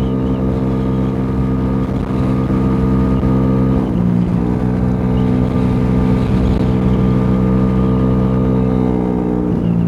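50cc scooter engine running steadily at cruising speed, heard from the rider's helmet. There is a brief change in the engine note about four seconds in, and another just before the end.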